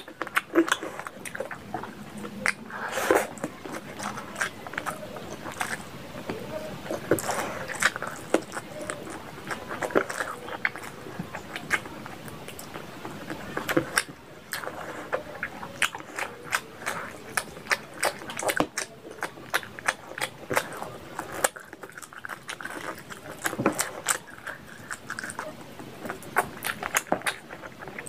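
Close-miked eating sounds of a person eating rice and curry by hand: wet chewing and lip-smacking with many sharp, irregular mouth clicks, and fingers sucked clean.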